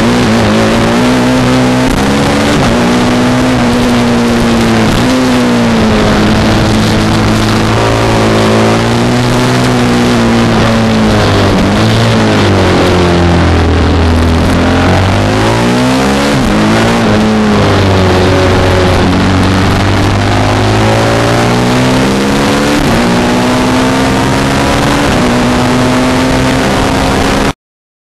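Motorcycle engine being ridden hard on a race circuit, its revs climbing and dropping over and over as the bike accelerates, shifts and brakes. The sound cuts off abruptly near the end.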